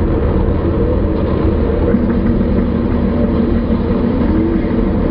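A car's engine and tyre noise heard from inside the cabin while driving: a loud, steady low rumble.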